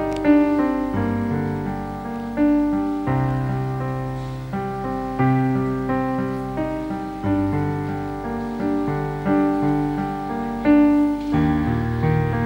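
Piano playing an instrumental interlude of slow chords between sung verses, each chord struck and left to fade, a new one every second or two.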